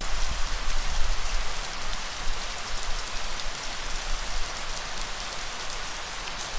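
Steady rain falling, a dense even patter, with a low rumble underneath that is strongest in the first few seconds.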